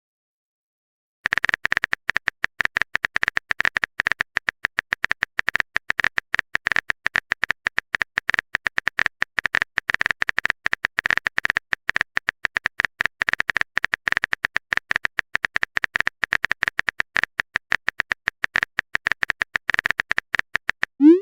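Rapid, uneven run of short clicky typing blips, each with the same high ping, as a typewriter-style text sound effect types out a message. It starts about a second in and ends with a short rising swoop.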